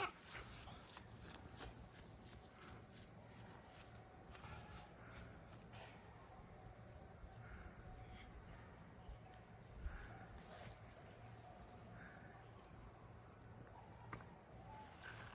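Steady, continuous high-pitched insect chorus of crickets or cicadas trilling without a break.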